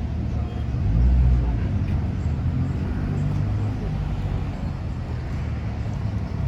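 Outdoor street noise: a steady low rumble of traffic that swells briefly about a second in, with faint voices.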